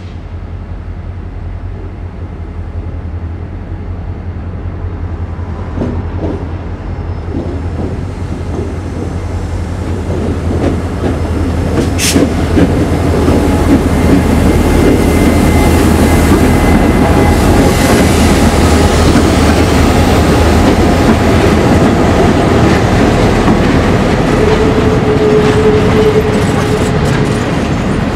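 Norfolk Southern diesel locomotives approach and pass, their low engine rumble growing steadily louder over the first half. They are followed by empty flatcars rolling by, with the wheels clicking over rail joints. There is a sharp knock about twelve seconds in and a brief wheel squeal near the end.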